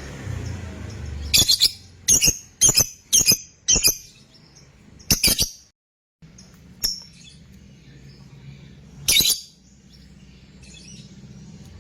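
Lovebird giving short, sharp, high-pitched chirps: a quick run of about six close together, then a few more spaced out, over a faint low hum.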